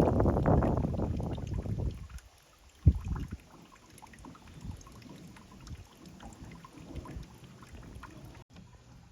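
Strong wind gusting against the microphone: a heavy low rumble for about the first two seconds, then lighter, uneven buffeting. A single sharp thump comes about three seconds in.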